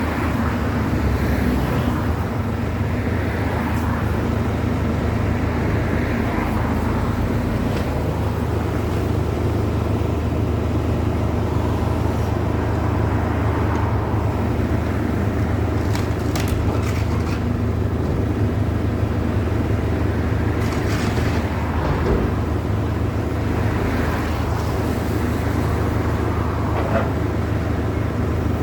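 A steady low engine drone, with a few sharp knocks scattered through it: a cluster about halfway through, and single ones later.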